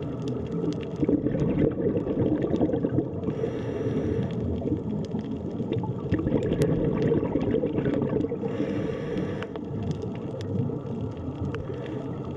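Underwater ambience: a dense, muffled wash of water sound, with scattered small clicks and two brief hissing swells, about three and a half and eight and a half seconds in.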